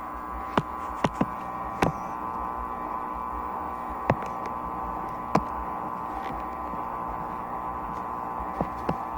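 LAC12 washing machine running with a steady motor hum, while its unbalanced load knocks sharply against the machine about eight times at uneven intervals.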